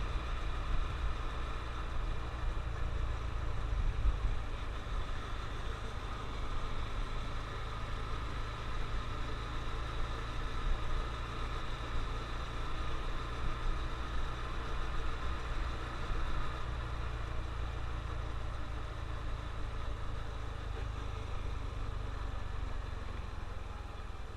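Honda CT125 Trail's small air-cooled single-cylinder four-stroke engine running steadily, with a low rumble beneath, its pitch dipping slightly near the end.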